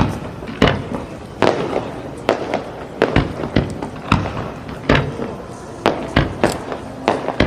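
Aerial fireworks shells bursting in quick, irregular succession: more than a dozen sharp bangs, about two a second, each trailing off in a rumbling echo.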